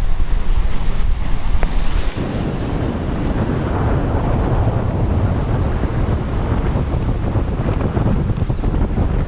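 Strong wind buffeting the microphone with a constant low rumble, over choppy surf breaking and washing below; a wave hisses briefly about two seconds in.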